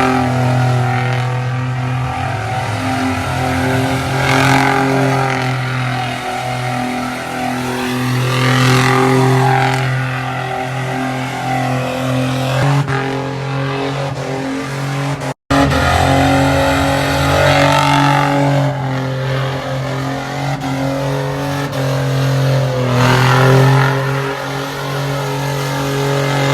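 Car engines running loud and revving at a street car meet, with a few rising-then-falling sweeps as cars rev or pass; the sound cuts out for an instant about halfway through.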